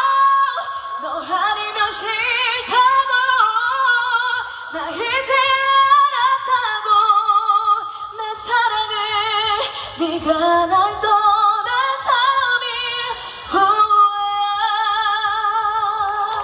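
A woman's solo voice singing a ballad a cappella, without accompaniment, in long phrases that slide between notes and end on held high notes with wide vibrato.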